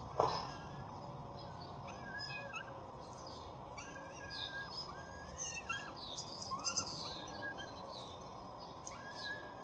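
Birds calling outdoors: a short, even call repeats about once a second over a busy background of high chirps, with one brief sharp sound just at the start.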